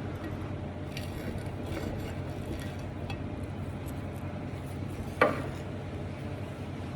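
Cutlery clinking and scraping on a plate while eating, with light taps and one sharp ringing clink about five seconds in, over a steady low background rumble.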